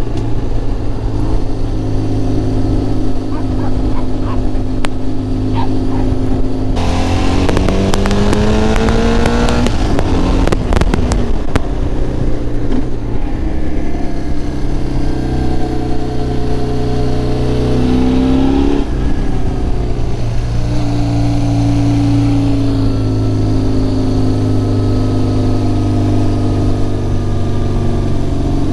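BMW R1100GS boxer-twin motorcycle engine running on the move, its pitch rising as it accelerates, dropping suddenly at a gear change about two-thirds in, then holding steady. Wind rushes and buffets over the microphone for several seconds about a quarter of the way in.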